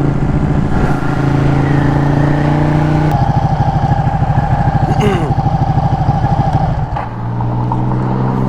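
Motorcycle engine idling loudly and steadily, its exhaust note pulsing for a few seconds in the middle before settling to a lower pitch. A brief high squeak sounds about five seconds in.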